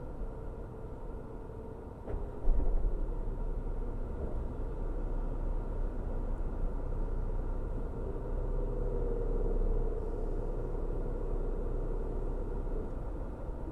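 Car driving on a road: a steady low rumble of engine and tyres with a faint hum above it. A small knock comes about two seconds in, the rumble grows louder just after, and it swells briefly again near the end.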